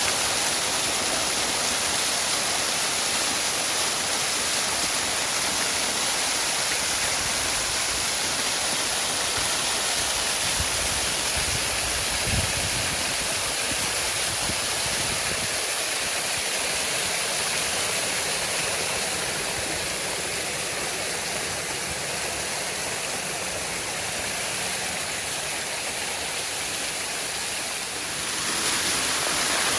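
Waterfall rushing steadily, with one brief low thump about halfway through.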